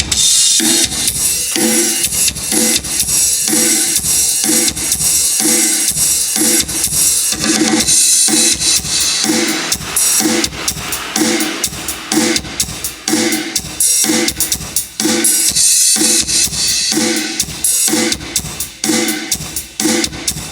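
Drum-heavy music with kick drum, cymbals and hi-hat keeping a steady beat, played loud through an outdoor PA speaker set as a demonstration.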